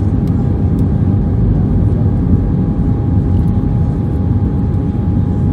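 Airbus A319 cabin noise heard from a seat near the wing: a steady low roar of the jet engines and airflow, with a thin steady whine above it.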